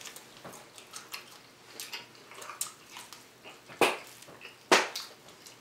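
Close-up eating sounds of someone biting into and chewing a crispy fried pork chop: scattered small crunches and mouth clicks, with two louder crunches about four seconds in.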